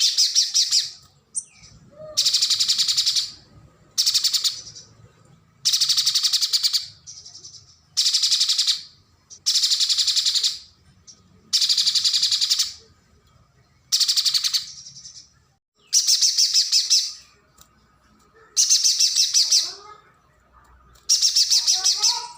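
Mountain spiderhunter (pijantung gunung) calling: a run of rapid, high trills, each about a second long, repeated about every two seconds. Fainter, lower chirps come in near the end.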